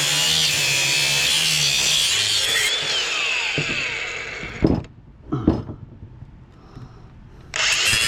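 A power saw cutting into an electric motor to get at its copper, running with a steady hum under load. The cutting dies away about four and a half seconds in, two sharp knocks follow, and the saw starts cutting again near the end.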